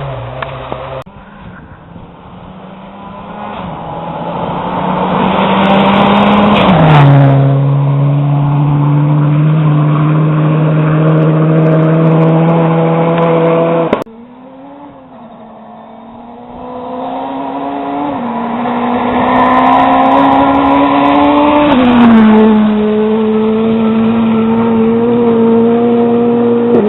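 Two rally cars speeding past one after the other, engines held at high revs. Each engine note climbs and swells as the car approaches, then drops sharply in pitch as it goes by and runs on steadily while it pulls away.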